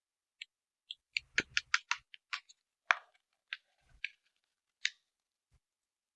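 Paper dragon puppet being handled, giving short, crisp paper clicks and taps: a few single ones, a quick run of about six in under a second, then more spaced out.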